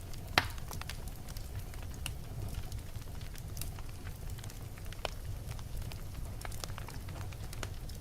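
Wood fire burning in a fireplace: a steady low rumble of the flames with scattered crackles and small pops, one sharp louder pop about half a second in.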